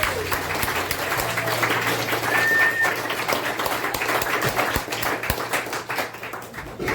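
Audience clapping in a room, dying down near the end.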